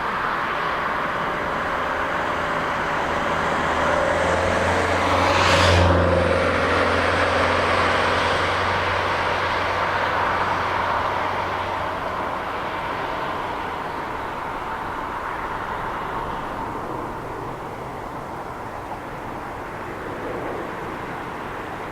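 Boeing 737-800 airliner's CFM56 jet engines passing close by on approach. The sound swells to its loudest about six seconds in, drops in pitch as the jet goes past, then fades away slowly.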